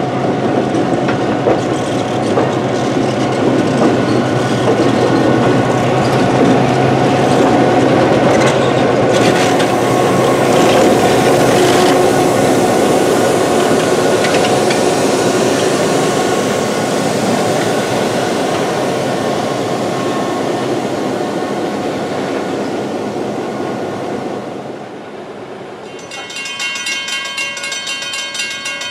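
A CF7 diesel locomotive and its lighted passenger cars rolling past close by, the engine's steady hum under the rumble and clacking of wheels on the rails. The sound eases near the end, and after a cut a grade crossing's bell rings in a rapid steady rhythm.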